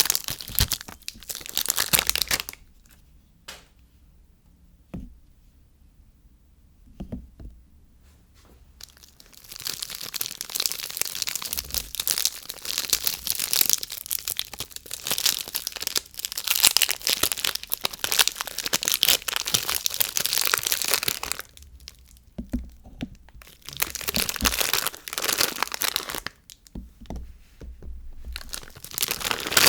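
Soap packaging being unwrapped by hand: wrappers tearing and crinkling in bursts. After the first burst there is a quieter stretch with a few light clicks, then a long steady run of crinkling through the middle and shorter bursts near the end.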